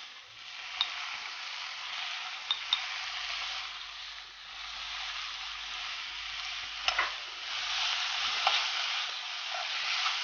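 Onion-tomato masala sizzling in hot oil in a pan while it is stirred, with a few sharp taps of the spoon against the pan, two of them close together about seven seconds in.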